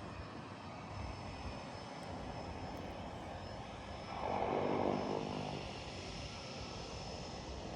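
Seaplane propeller engine running steadily, swelling louder for a second or so about four seconds in, then easing back.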